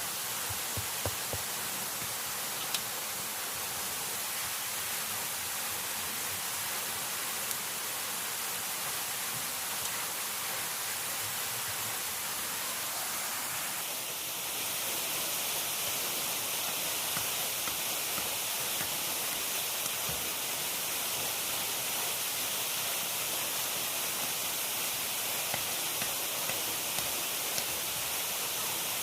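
Steady hiss of rushing water, which shifts slightly louder and brighter about halfway through, with a few faint ticks near the start.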